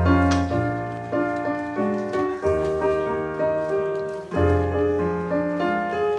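Piano playing slow chords over a melody, with a deep bass note struck about every two seconds and each chord dying away before the next.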